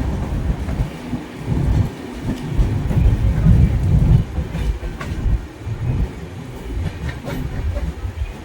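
Passenger train running on the track: a heavy, uneven rumble from the wheels and coaches, loudest a few seconds in, with a few sharp clicks of the wheels.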